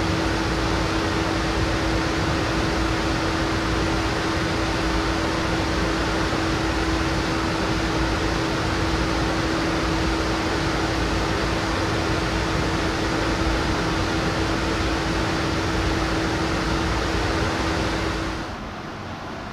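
Laser cutter running while cutting acrylic sheet: a steady fan-like whoosh from its blowers with a steady hum underneath. The noise drops away sharply near the end.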